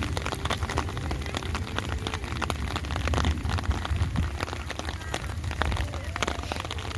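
Rain falling steadily, a dense patter of drops hitting close to the microphone over a low rumble; it cuts off abruptly at the end.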